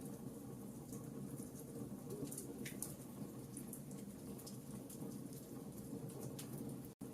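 Campfire crackling: scattered sharp pops and snaps over a steady low rush of burning wood. The sound cuts out for an instant near the end.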